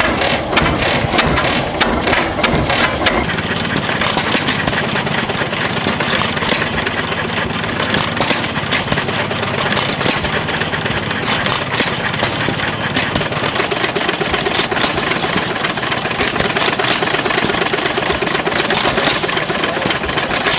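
Antique stationary internal-combustion engines running: a loud, steady mechanical clatter with many quick clicks.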